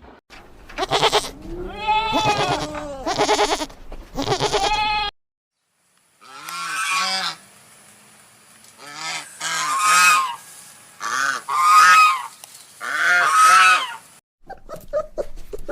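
Animal calls in two separate recordings, split by a brief silence about five seconds in. First come several long calls that glide in pitch, then a series of shorter calls in groups.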